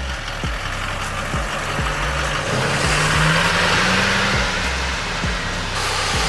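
Duramax diesel pickup engine revving hard for a burnout, its note climbing about halfway through as a loud rushing noise builds over it.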